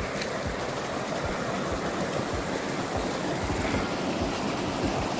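Shallow creek water rushing steadily through a narrow rock slot.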